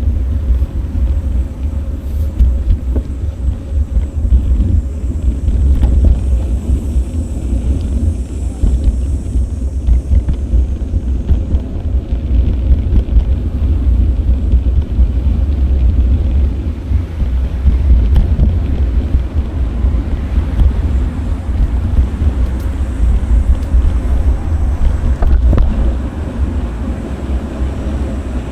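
Wind buffeting the microphone of a bicycle-mounted action camera while riding: a loud, fluctuating low rumble with road noise beneath.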